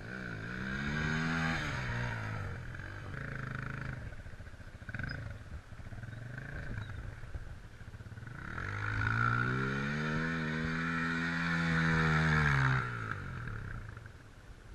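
250 cc enduro motorcycle engine revving up and easing off: a short rise and fall at the start, then a longer, louder one past the middle, with lower, uneven running in between.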